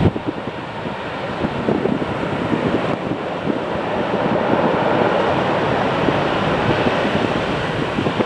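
Steady rumble of a departing jet airliner's engines, swelling slightly midway, with wind buffeting the microphone.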